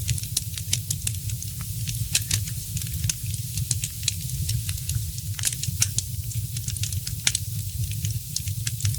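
Wood fire crackling, with many sharp, irregular pops over a steady low rumble.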